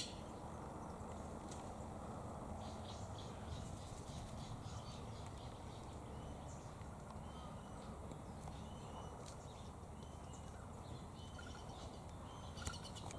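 Outdoor ambience: a steady low background rumble with faint, scattered bird chirps from somewhere off in the distance.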